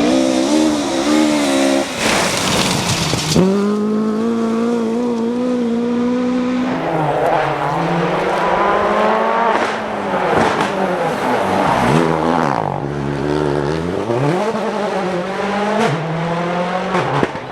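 Rally car engines running hard on a stage, the pitch climbing and then dropping again with gear changes. About twelve seconds in the engine falls low as the car slows, then revs back up as it accelerates away. A loud rush of noise comes about two seconds in.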